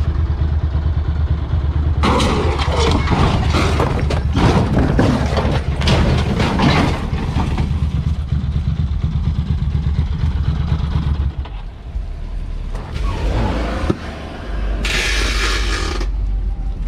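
Dirt bike engine running with a heavy low rumble, with a run of sharp knocks and clatter a few seconds in.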